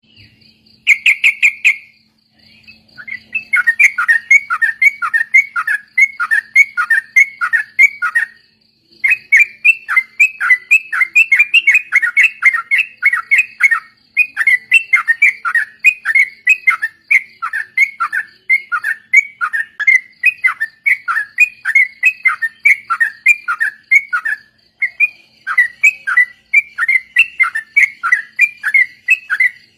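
Yellow-vented bulbuls (trucuk) singing in long, rapid runs of bubbly down-slurred notes, several a second, in phrases broken by short pauses. A faint steady high tone sits in the background.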